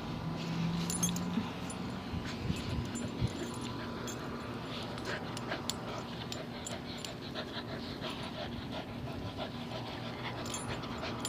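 A dog panting, with a short whine near the start and scattered light clicks.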